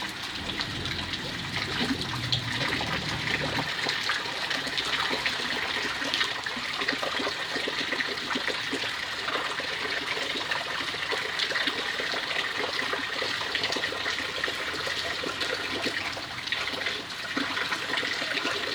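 Rainwater running and splashing in a steady rush.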